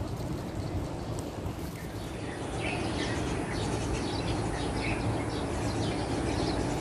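Wild birds giving many short, high chirps over a steady low outdoor rumble; the chirping starts about two seconds in.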